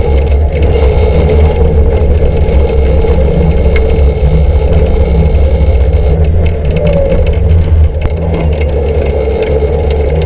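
2008 Can-Am Outlander 800 ATV's Rotax 800 V-twin engine pulling steadily under heavy load on a steep hill climb, with no stumble or lapse in throttle response. It eases off slightly about eight seconds in.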